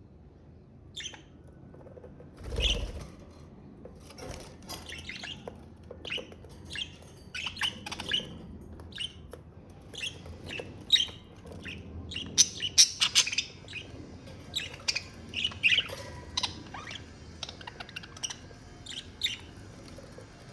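Budgerigar chirps: short, sharp high calls, a few at first, then coming thick and fast from about four seconds in. A low thump about three seconds in.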